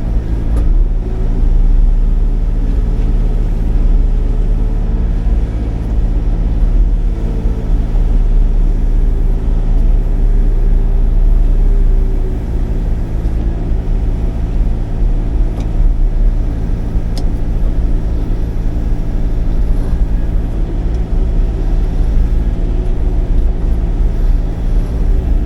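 Sany 35 mini excavator's diesel engine running steadily with a low drone, with a fainter whine wavering up and down over it as the machine works.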